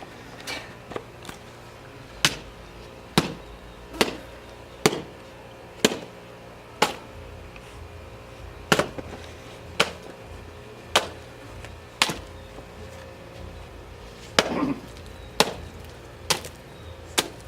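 Croquet mallet repeatedly smashing a watermelon: a series of sharp whacks about once a second, with a couple of short pauses.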